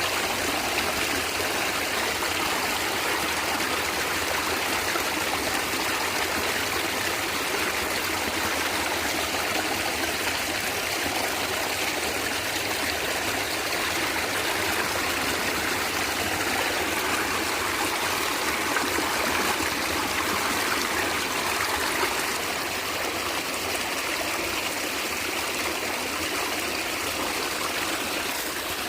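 Small stream gurgling and trickling steadily over stones.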